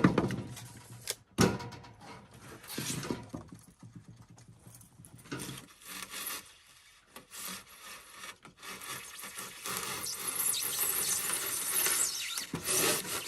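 A blade drawn through rigid foam insulation board, a dry scraping, squeaky rasp under downward pressure. It comes in short strokes at first and becomes a steadier, louder scrape in the last few seconds.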